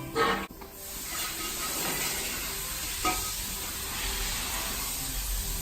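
A steady hiss, with a sharp click just after the start and another about three seconds in.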